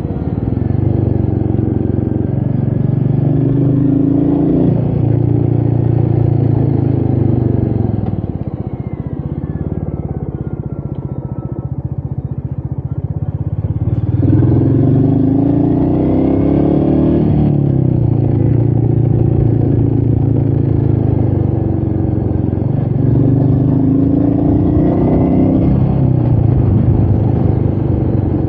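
Royal Enfield Meteor 350's single-cylinder engine running on the move, the pitch climbing as it accelerates near the start, about halfway and again near the end, with a quieter stretch in between where it drops back; wind noise runs underneath.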